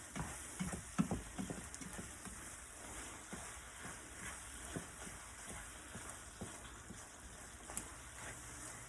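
Food frying in hot oil: a steady sizzle with scattered pops and crackles, busiest in the first couple of seconds.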